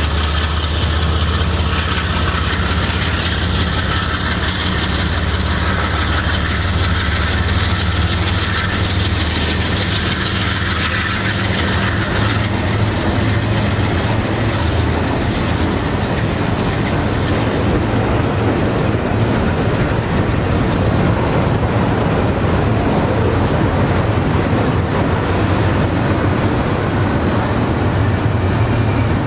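Double-stack container train's well cars rolling past, the wheels rumbling and clacking steadily. A low diesel drone from the receding lead locomotives fades out about halfway through, leaving the wheel noise.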